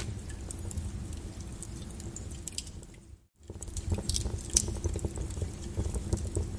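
Wood fire crackling with sharp pops over a steady low rumble and rain patter. The sound dips out to near silence for a moment about halfway through, then returns.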